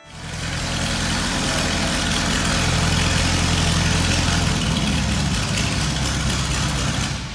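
An engine running steadily and loudly, with a rough, fast beat, starting abruptly and cutting off near the end.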